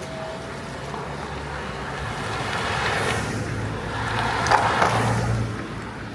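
Steady low hum of a car on the move, with a passing vehicle's noise swelling and fading between about two and five and a half seconds in, and a few sharp rattles near its loudest point.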